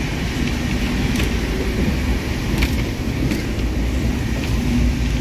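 Archana Express passenger coach running on the rails, heard from inside: a steady low rumble of wheels and running gear, with a few faint clicks and rattles.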